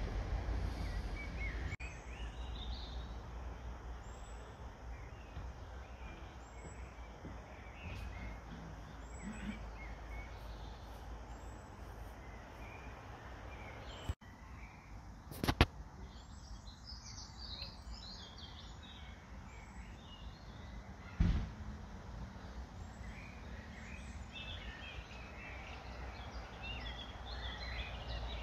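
Small birds chirping in scattered bursts over a steady low rumble, with two sharp knocks about five seconds apart around the middle.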